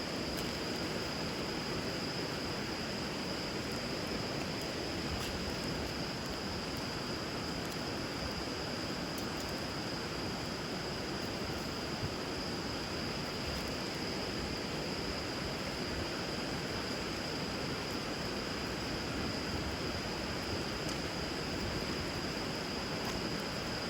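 Steady rush of river water, with a few faint crackles from a wood fire burning on the water, over a thin steady high-pitched tone.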